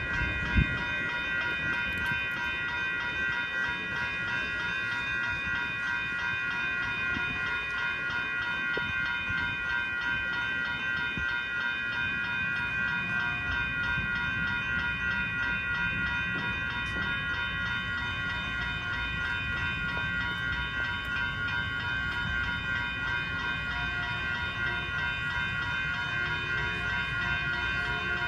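Passenger train at a station, running with a steady low rumble and a steady high whine made of several tones. One sharp knock sounds about half a second in.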